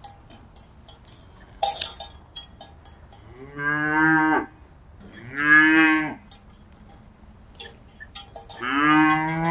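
Cattle mooing: three long, low calls, the last still going at the end. Scattered short clinks sound between them, with a louder clank about two seconds in.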